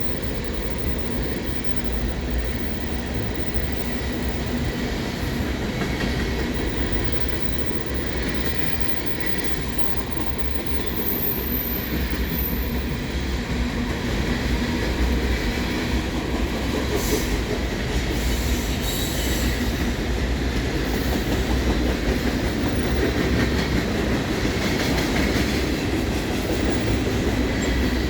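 CN freight train cars rolling steadily past: continuous rumble of steel wheels on rail, with a faint high wheel squeal over it.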